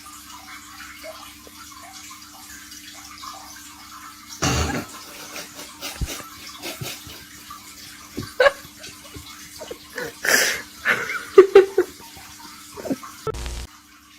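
Water splashing, over a steady low hum, with irregular louder splashes and knocks in the second half.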